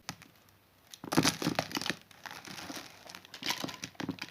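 Crinkling and rustling of something being handled, loudest for about a second after a short pause, with a click at the very start.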